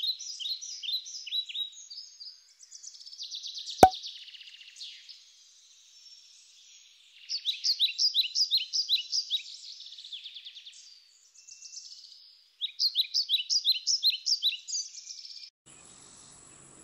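A songbird singing in several runs of quick, repeated high chirping notes, with pauses between the runs. A single sharp click comes about four seconds in, and a faint steady high buzz sets in near the end.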